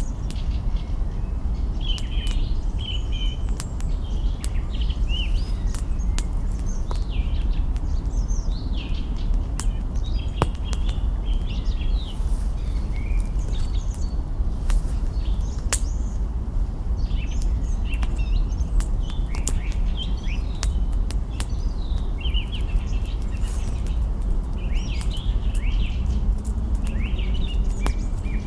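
Small birds chirping and twittering in short repeated phrases, over a campfire's twigs crackling and popping in scattered sharp clicks. A steady low rumble runs underneath.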